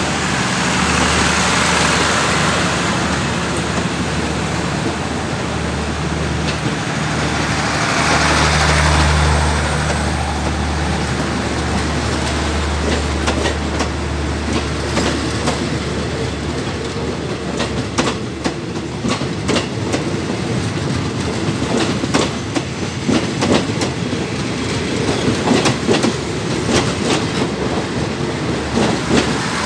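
Passenger train coaches rolling past: a steady rumble with a low hum and two swells of hiss, then rapid wheel clicks over the rail joints that grow denser through the second half.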